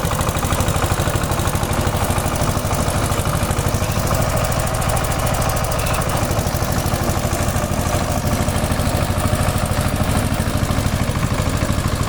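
16 HP power tiller's single-cylinder diesel engine running steadily, a loud, fast, even chugging that holds the same pace throughout.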